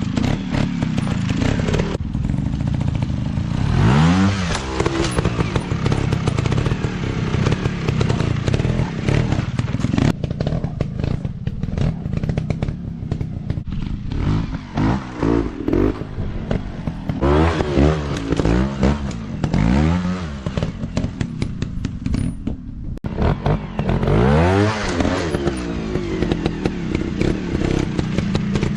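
Dirt bike engines running, with the throttle blipped so the pitch sweeps sharply upward: once about four seconds in, several quick revs in a row in the middle, and again near the end.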